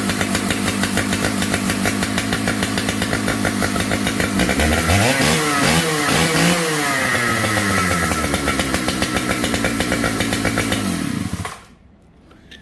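Big Husqvarna two-stroke chainsaw running with an even firing beat, blipped up and down a few times about five seconds in, then shut off near the end.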